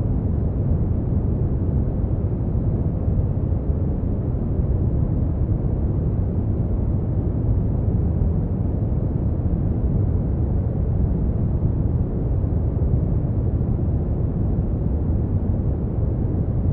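Steady brown noise: a continuous deep rumbling hiss, strongest in the bass and fading toward the treble, with no change in level.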